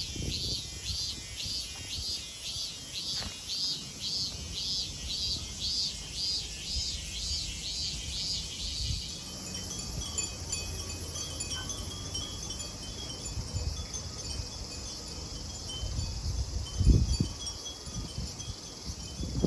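Cicadas singing: a pulsing high call repeating about twice a second that stops about halfway through, giving way to a steady high buzz. A low thump is heard near the end.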